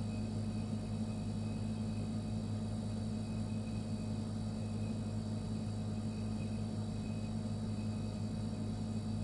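Refrigerator running with a steady low hum and a faint high whine above it.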